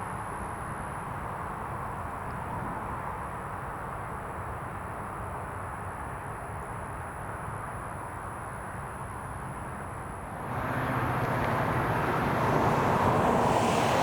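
A train rumbling at a distance, growing louder about ten seconds in as it approaches.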